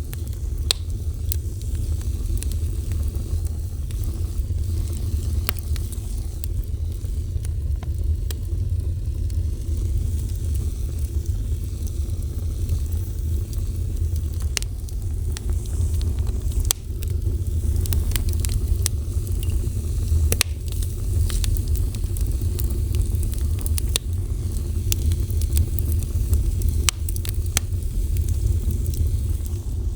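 Fire burning with a steady low roar and scattered sharp crackles and pops from the wood.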